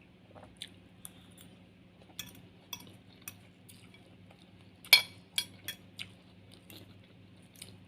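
Eating utensils clinking against a plate or bowl in scattered light taps, the loudest clink about five seconds in followed by a few quicker ones.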